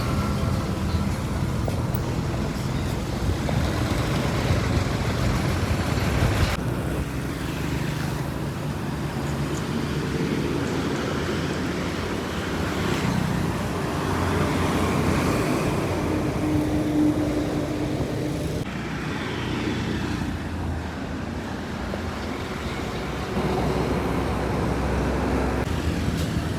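Heavy trucks running on a road: steady engine rumble and traffic noise. The sound changes abruptly three times, about six, nineteen and twenty-three seconds in.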